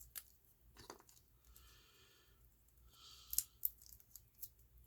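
Faint, scattered small clicks of fine watchmaking tools and tiny watch parts being handled, with a few sharper clicks about three and a half seconds in.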